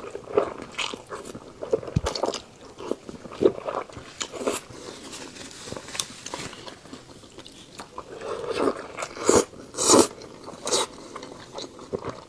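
Close-miked eating sounds: a person chewing and biting food, with irregular crisp clicks and crunches, a cluster of louder ones near the end.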